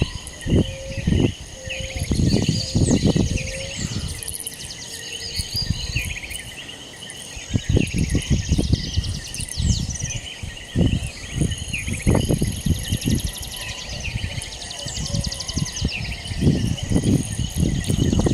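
Outdoor chorus of insects and birds, with a steady mass of high trills and chirps. Irregular gusts of wind buffet the microphone as low rumbles every second or two.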